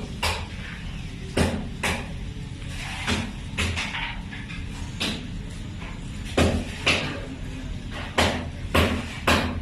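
Footsteps of a person walking on a hard concrete floor, about two steps a second, stopping and starting a few times.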